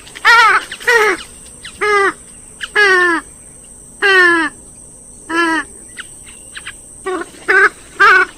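Swamphens and moorhens giving loud, harsh, nasal calls, about nine in all. Short calls come in quick succession near the start and end, and longer calls sliding down in pitch fall around the middle. A faint steady high-pitched tone lies beneath them.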